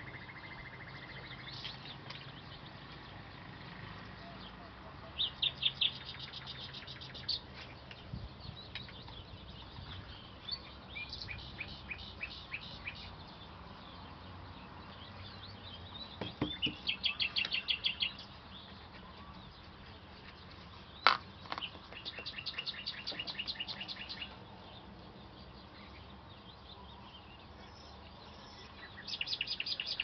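Songbirds singing in phrases of fast, evenly repeated high notes, each phrase lasting one to three seconds, with pauses between, over a steady low hum. A single sharp click stands out about two-thirds of the way through.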